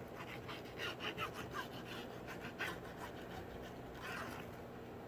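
Faint handling noises of craft materials on a tabletop: a run of light clicks and scratchy rustles over the first few seconds, then a brief soft rustle about four seconds in.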